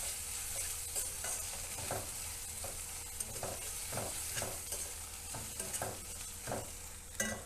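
Onion and ginger-garlic paste frying in oil in a kadai, sizzling steadily, while a spatula stirs and scrapes it in regular strokes about twice a second. The paste is being browned.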